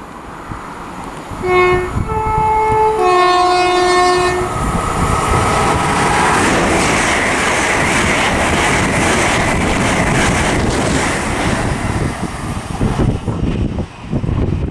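LNER Azuma high-speed train sounding its two-tone horn, three notes low-high-low over about three seconds. It then passes through at speed with a loud, steady rush of wheels on rail and air, which drops away near the end.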